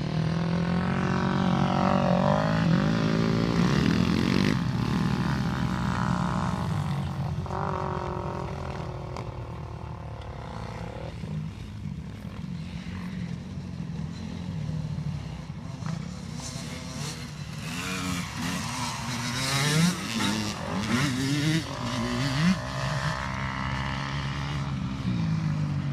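Motocross dirt bike engines: one runs at a steady idle throughout while other bikes rev up and down several times, their pitch rising and falling. The revving is busiest and loudest in the second half.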